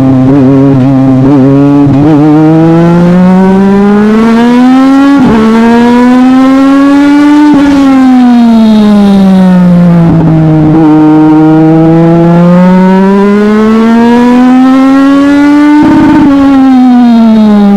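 Legend race car's Yamaha four-cylinder motorcycle engine running hard at a constant loud level. Its pitch climbs steadily for several seconds and then falls as it comes off the throttle, twice over: a long rise to about seven seconds in, a drop, another rise to about sixteen seconds in, and a fall near the end.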